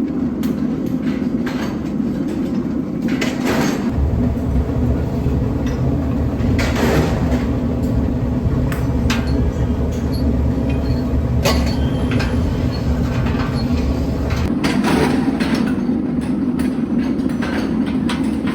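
Heavy factory machinery running with a steady hum and a deep rumble that grows heavier for about ten seconds in the middle, with scattered sharp knocks throughout.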